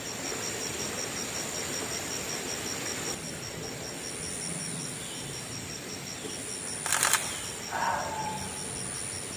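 Camera shutter firing a quick burst of clicks about seven seconds in, over steady outdoor ambience with a high, evenly pulsing drone.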